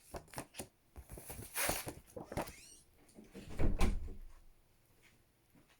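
A run of short clicks, knocks and rustles, with a louder low thump a little past the middle.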